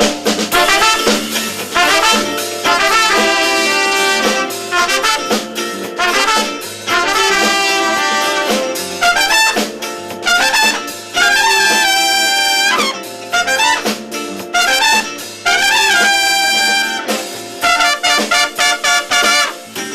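Live band playing an up-tempo 1970s-style number, with a brass-like lead line holding and bending notes over the rhythm section.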